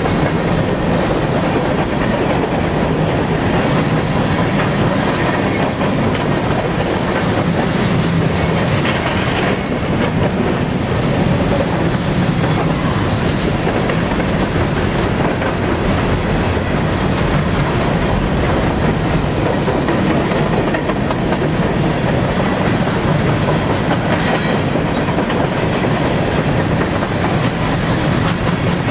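Empty grain-train freight cars rolling past steadily, their wheels clacking over the rail joints.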